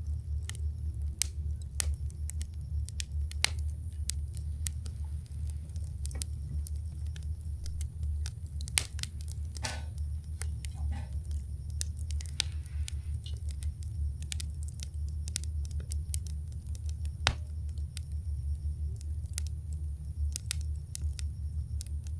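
Wood campfire crackling, with irregular sharp pops and snaps at uneven intervals over a steady low rumble.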